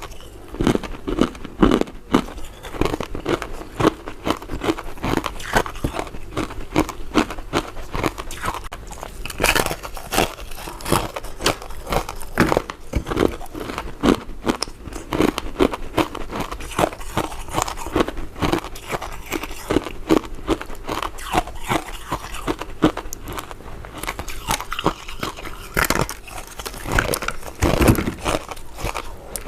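Chewing and biting of soft, chewy powder-coated mint candy: a steady run of short, close mouth clicks and smacks.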